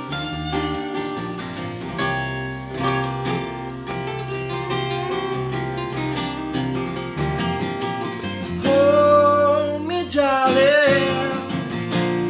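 Acoustic guitar strummed and picked in an instrumental passage of a soft pop song. About two-thirds of the way through, a singing voice comes in with a long held note that then wavers.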